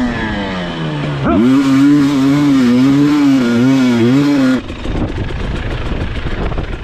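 Dirt bike engine under way: the revs drop off for about a second, then pick up sharply and hold with small rises and dips. About four and a half seconds in the engine note gives way abruptly to a rough noise with no clear pitch.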